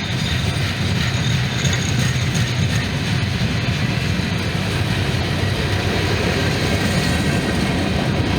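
Norfolk Southern freight train rolling past, a loud, steady rumble.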